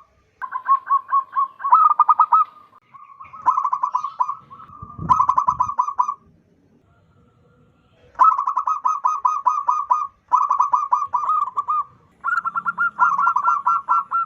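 Zebra dove (perkutut) cooing in fast staccato trains of rapid repeated notes, about seven a second, in five bouts of one to two and a half seconds, with a pause of about two seconds near the middle.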